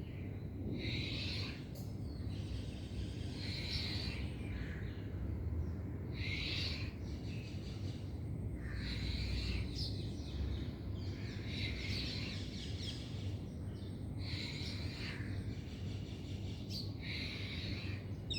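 A bird calling over and over, short high calls repeated every two to three seconds, over a steady low background rumble.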